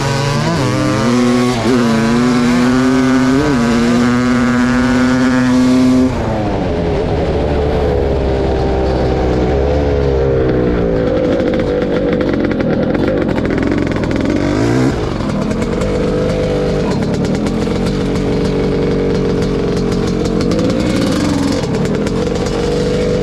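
1986 Kawasaki KX500's 500 cc single-cylinder two-stroke engine with an FMF Gnarly exhaust pipe, revved and held high for about six seconds, then dropping off sharply. It is blipped once more near the middle and settles into steadier running at moderate revs.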